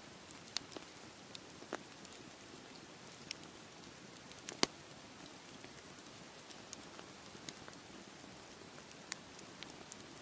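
Campfire crackling: irregular sharp pops and snaps, one louder pop a little before the middle, over a steady background hiss.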